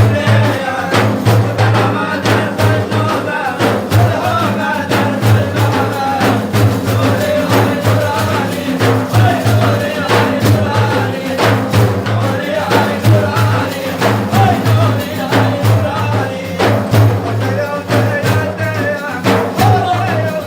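Madih devotional praise singing with a steady, rhythmic drum beat and a low sustained drone underneath.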